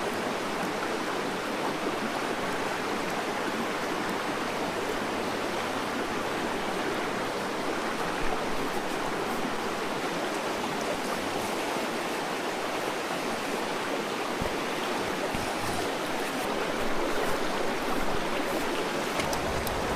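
Steady rush of running water, with a few faint clicks and knocks over it.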